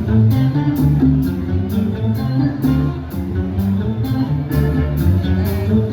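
Live band playing an instrumental passage: guitar and bass chords over drums, with a steady cymbal beat about twice a second.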